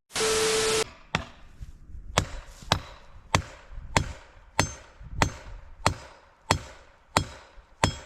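Steady blows on wood, about a dozen strikes roughly two-thirds of a second apart, each with a short ring. It opens with a brief burst of hiss and a steady tone.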